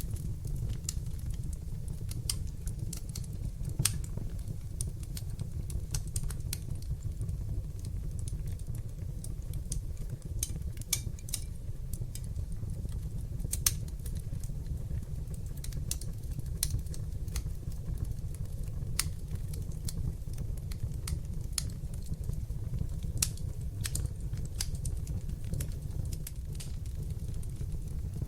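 Wood fire burning in a fireplace: a steady low rumble of flames with irregular sharp crackles and pops from the burning logs, a few louder than the rest.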